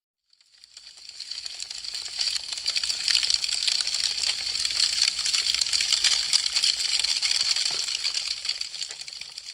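Wood fire crackling: a dense run of small, sharp pops and snaps. It fades in from silence over the first couple of seconds and fades out near the end.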